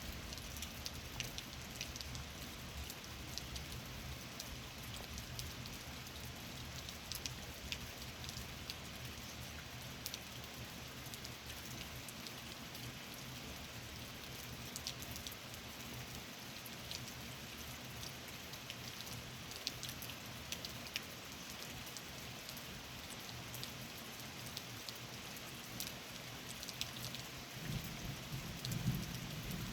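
Steady rain falling, with many individual drops pattering and ticking on a surface. A brief low rumble of thunder swells near the end.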